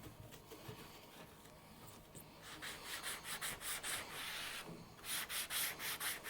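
Scrubbing a microwave's outer casing coated with degreaser: rhythmic rubbing strokes, about four a second, starting a couple of seconds in, pausing briefly, then resuming.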